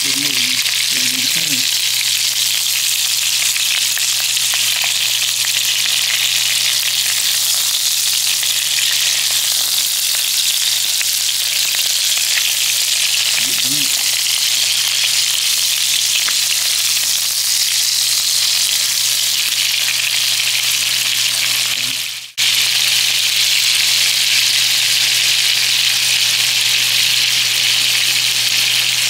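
Ground-chicken kofta patties frying: a loud, steady sizzle that drops out briefly about 22 seconds in.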